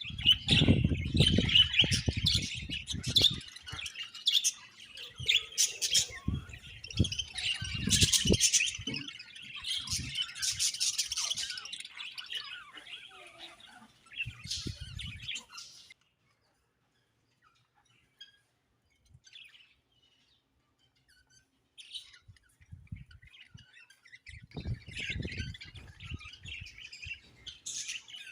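A colony of budgerigars chirping busily, with low thuds mixed in. The chatter breaks off for several seconds past the middle, then a few scattered chirps return toward the end.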